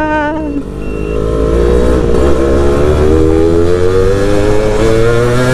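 Two-stroke engine of a stock 2000 Yamaha F1ZR motorcycle pulling hard under acceleration while riding. Its pitch climbs steadily for about four seconds.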